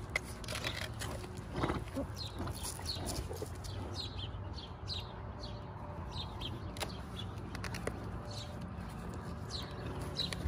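Small birds chirping over and over, short falling chirps, over a low steady background hum, with a few faint clicks of hands working the hoof boot's straps.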